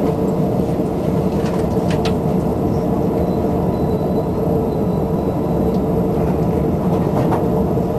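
Running noise of a JR Shonan Shinjuku Line electric train, heard from inside the carriage: a steady rumble of wheels on rails, with a few faint clicks.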